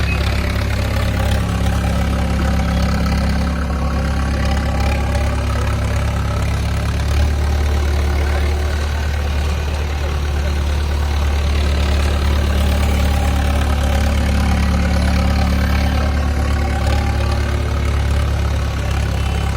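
Mahindra tractor's diesel engine running steadily at a low, even speed, close to the microphone.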